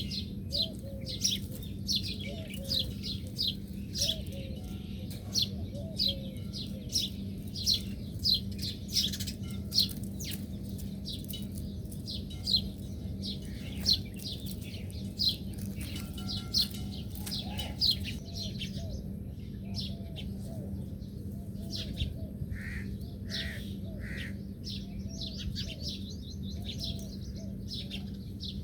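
Small birds chirping, a dense run of quick high chirps repeated several times a second, over a steady low hum.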